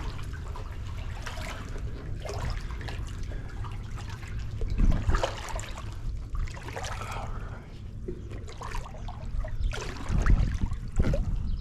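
Water splashing and trickling around a personal watercraft, in irregular surges over a low steady rumble, with the loudest splashes about five seconds in and near the end.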